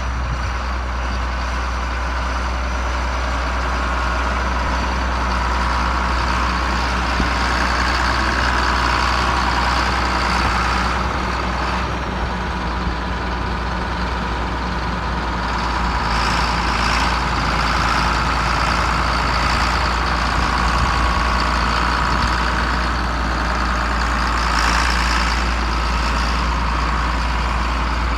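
1990 John Deere 4455 tractor's turbocharged six-cylinder diesel engine running steadily, with no change in pace.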